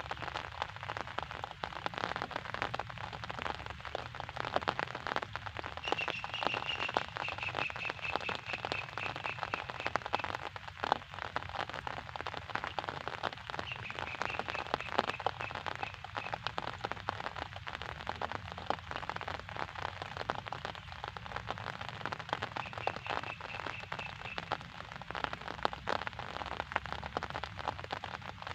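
Rain falling steadily: a dense patter of many small drops hitting a surface. A faint high trilling call rises above it three times, each lasting a few seconds.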